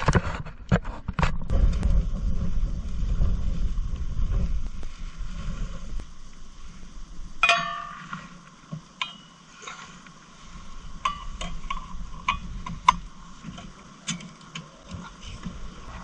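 Sharp metal clinks and clanks with a short ring, several in the second half, the loudest about halfway through. Before them, a few seconds of rough low rumbling and knocking.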